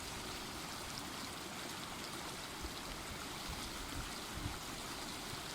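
A river flowing, a steady rush and trickle of water.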